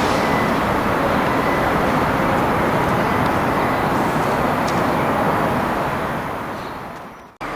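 Steady running noise of an electric train on the line, fading out over the last second or so and then cut off abruptly.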